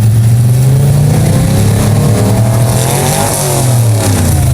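Mega truck engine revving hard over a steady low drone. The pitch climbs to a peak about three seconds in, then drops back down.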